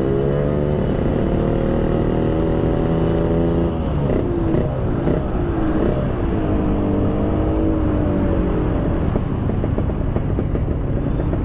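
Yamaha RX-King two-stroke single-cylinder engine running through an aftermarket PDK exhaust while the bike is ridden at a steady pace, over wind and road rumble. About four seconds in the engine note dips and wavers, then holds steady again before sinking into the road noise near the end.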